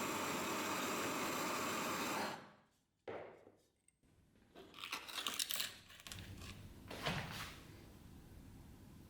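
A small electric power tool running steadily, then switched off and winding down about two seconds in. After it come a click and some scraping handling noises.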